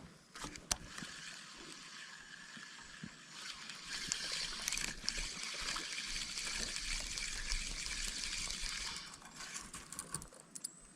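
Water of a small forest stream trickling and running, swelling about four seconds in and fading near the end, with a few sharp clicks.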